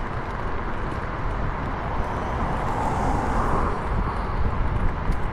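Road and wind noise while riding a scooter along a street: a steady low rumble with hiss, swelling louder for a second or so about three seconds in, like a vehicle going past.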